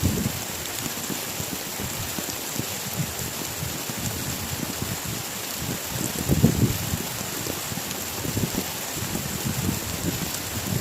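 Heavy rain falling steadily, a continuous hiss, with irregular low rumbles underneath that swell most about six seconds in.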